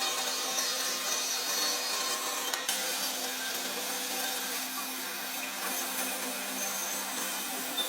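Electric power tool running steadily as it works wood: a continuous rasping noise over a steady motor hum, with no pauses or strokes.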